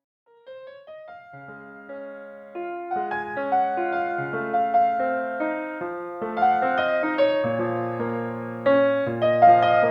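Solo piano music starting from silence about half a second in, single notes building into fuller chords and growing louder, with low bass notes joining about seven and a half seconds in.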